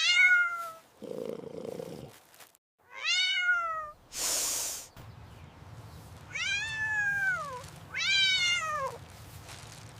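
Domestic cat meowing four times, each meow falling in pitch, with a short hiss about four seconds in. A low steady purr runs under the second half.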